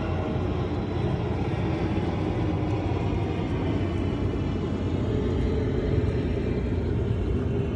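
Motorboat engine running steadily, a constant low rumble with wind and water noise over it.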